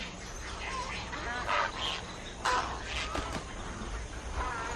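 Birds calling: short, arched calls repeated at irregular intervals over a faint outdoor background.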